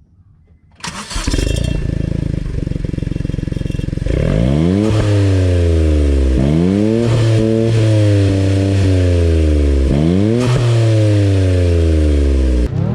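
Honda S660's turbocharged three-cylinder engine breathing through a one-off custom exhaust: it comes in about a second in, runs steadily for a few seconds, then its note climbs and drops in pitch several times in quick sweeps as the revs go up and down.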